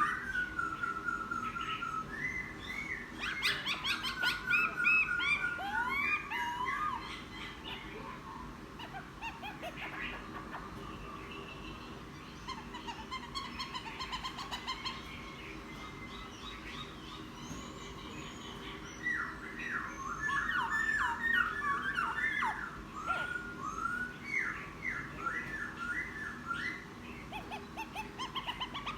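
A newly caught wild laughingthrush singing loose, rambling phrases of varied whistles, slurred notes and short trills. It is busy at first, sparse for a stretch in the middle, then picks up again, over a faint steady low hum.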